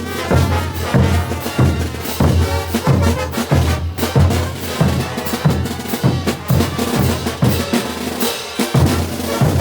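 Bolivian brass band playing, with bass drum and snare drum to the fore in a steady rhythm over the brass.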